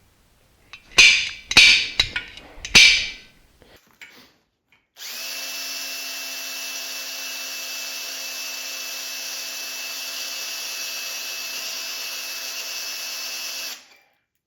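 Three ringing hammer blows on a center punch marking the steel engine stand, then an electric drill running steadily into the steel for about nine seconds before stopping abruptly. The inexpensive drill bit is making little progress, and the owner calls the bits terrible.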